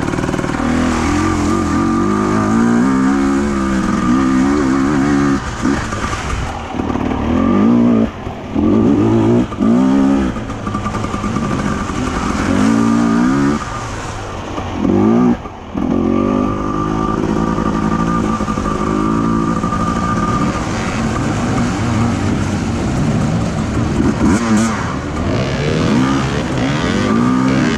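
Enduro motorcycle engine revving up and down over and over as it is ridden, with a few brief drops where the throttle is shut off.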